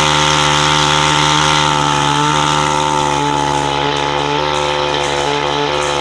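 Chinese-made gasoline chainsaw running at steady high revs, its pitch holding level after revving up just before.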